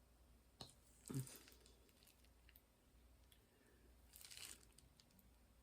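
Quiet room with faint handling noises: a click about half a second in, a short rustle with a soft knock about a second in, and another soft rustle near four seconds.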